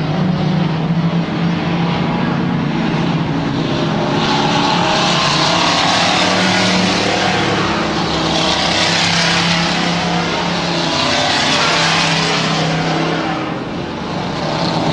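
Stock race trucks' engines running on a dirt oval. The noise swells and fades twice as trucks come past, with a short dip near the end.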